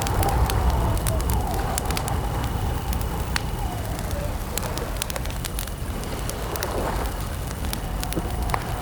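Wood campfire crackling, with many sharp, irregular pops over a steady low rumble. Behind it a steady high cricket chirp drops out in the middle and then returns.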